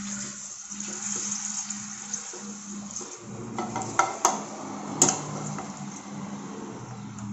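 Papad sizzling in hot oil in a frying pan, with metal tongs scraping the pan and three sharp clicks against it about four to five seconds in.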